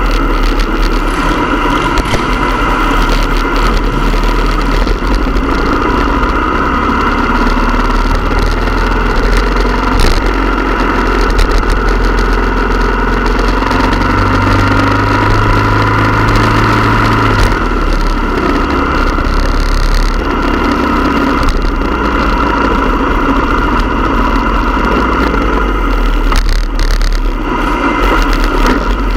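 Motorcycle engines running steadily in a group ride, over a constant rush of noise.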